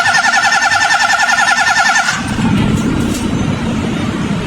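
A 2019 Honda City's starter motor cranking the engine with a fast, even pulsing whine for about two seconds, then cutting off suddenly. The engine does not catch: a crank-no-start, with no injector pulse reaching the injectors.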